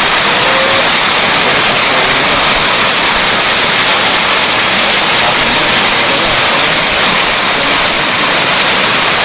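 Waterfall water rushing and pouring close by, a loud steady wash of noise.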